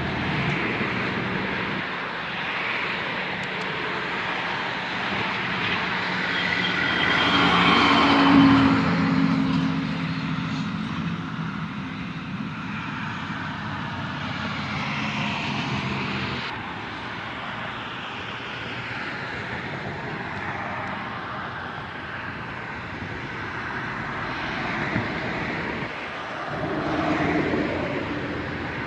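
Road traffic passing steadily. One vehicle, most likely a truck, passes loudly about eight seconds in with a falling pitch, and another passes near the end.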